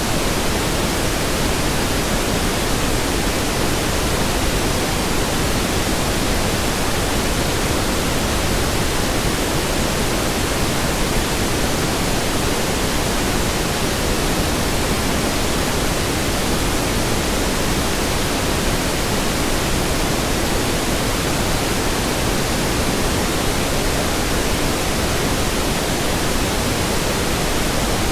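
Steady pink noise: an even, constant hiss spread across low and high pitches, with no changes.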